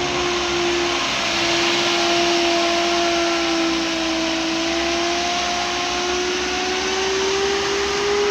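Heavy quarry machinery running steadily: a loud rushing noise with a whine that dips slightly in pitch and then rises again.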